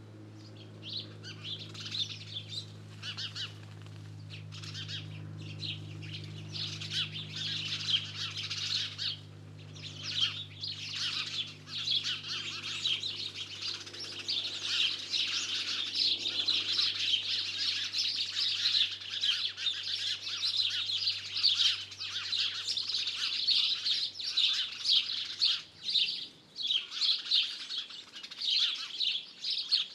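Many songbirds singing at once, a dense chorus of rapid chirps and trills that fills in after the first second or so. Under it a low steady hum fades away near the end.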